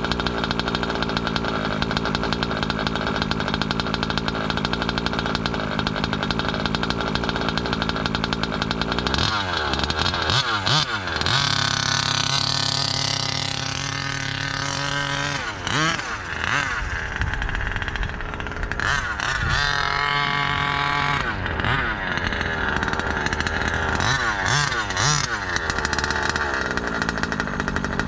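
New ESP two-stroke RC engine idling, then revved repeatedly. Twice it is held at high revs for a few seconds, with short blips in between, before it drops back to idle near the end. These are its break-in heat-cycle runs.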